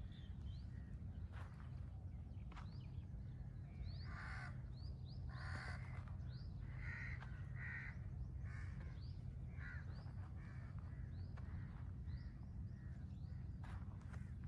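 Crows cawing, about six harsh calls in the middle stretch, over short rising chirps from a smaller bird repeated throughout. A steady low rumble runs underneath.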